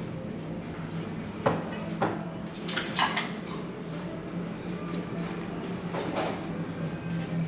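Plates and cutlery clinking at a breakfast buffet: a few sharp clinks, with a cluster about three seconds in, over a steady low hum.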